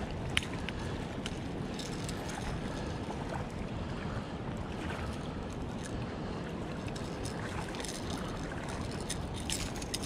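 Steady wind rumble on the microphone and water noise around a kayak, with scattered small clicks and knocks, the sharpest about half a second in and a few more near the end.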